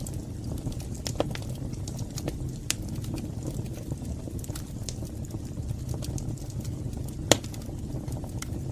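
Wood fire burning in a fireplace: a steady low rumble of flame with scattered crackles and pops, one sharper pop about seven seconds in.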